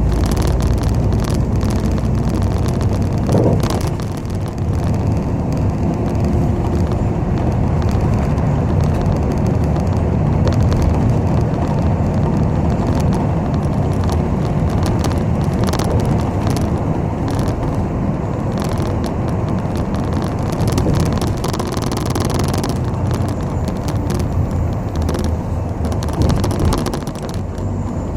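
Inside a moving city bus: steady engine and road rumble, with scattered brief clicks and rattles from the cabin.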